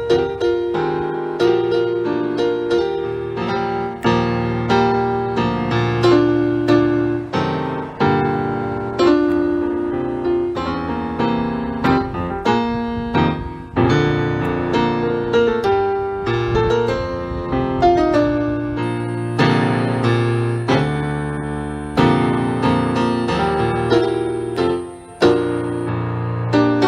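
Background piano music: a steady run of struck notes with sustained chords underneath.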